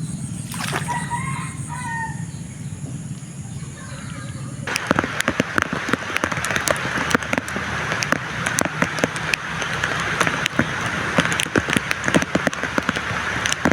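A rooster crows once about a second in. About five seconds in the sound changes abruptly to a dense, crackling patter of rain that carries on.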